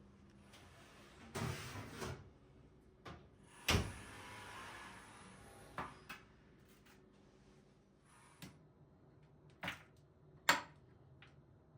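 Kitchen handling sounds: a string of knocks and bumps of things being set down, opened and closed, the sharpest one near four seconds, followed by a soft stretch of rustling or sliding noise.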